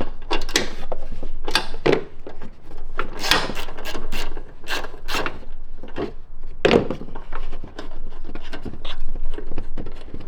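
Hand tools and car parts being worked while headlight bolts are undone: irregular scraping, clicking and knocking, with a louder knock about a third of the way in and another about two-thirds in.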